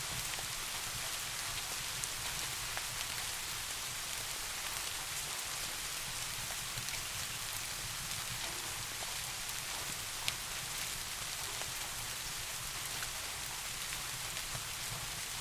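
Steady rain falling, an even hiss with scattered sharp ticks of single drops, one louder tick about ten seconds in.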